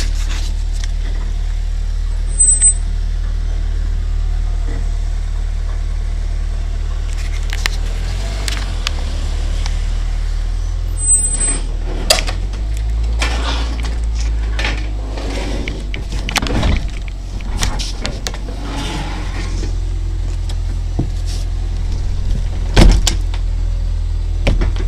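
Ford Tempo's four-cylinder engine running steadily shortly after a cold start, with scattered clicks and knocks around it, the loudest near the end.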